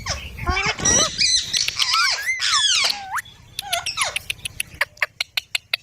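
Young Indian ringneck parrot giving loud, high, squeaky screeching calls that bend sharply up and down, which the owner takes for anger. A few shorter calls follow, then a quick run of sharp clicks near the end.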